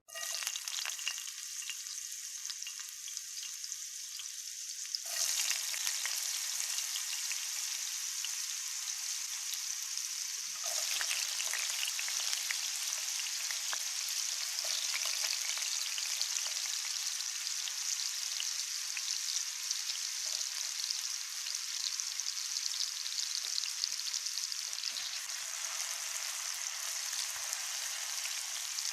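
Food frying in a pan: a steady crackling sizzle. It jumps louder abruptly about five seconds in and shifts again near eleven seconds.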